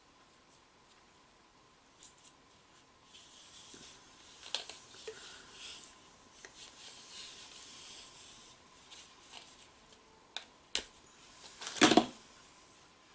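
Teflon (PTFE) thread tape being pulled off the roll and wrapped around a boiler drain's threads: a scratchy rubbing for several seconds, then a few sharp clicks and a louder knock near the end as the fitting is handled.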